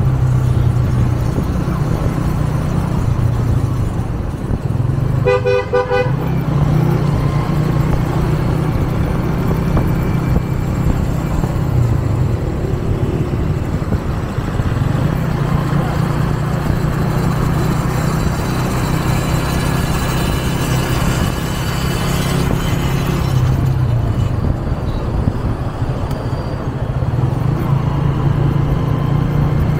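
A 125 cc motorcycle engine running steadily while riding through city traffic. A vehicle horn gives a short, rapidly pulsing honk about five seconds in.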